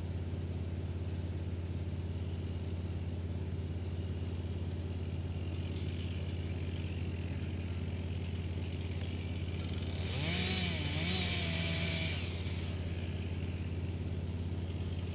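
Wood chipper's engine running at a steady hum. About ten seconds in, a louder, hissing grind lasts about two seconds as wood goes through, and the engine note dips and comes back up under the load.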